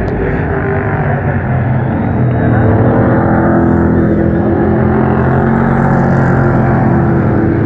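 Pro Truck race trucks' engines running at speed around a short oval track, several engines together, getting louder about two seconds in as the field comes by.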